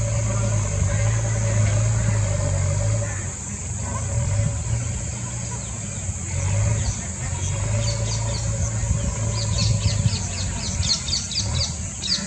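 A steady low hum with a constant high hiss over it; from a little past halfway a small bird chirps in a quick run of short, high notes.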